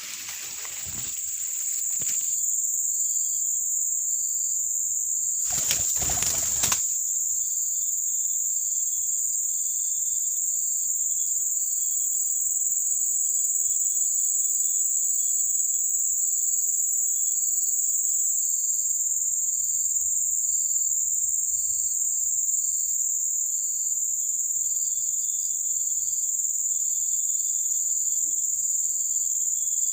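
Insect chorus: a steady high-pitched buzz with a short chirp repeating about once a second. A brief rustle about six seconds in.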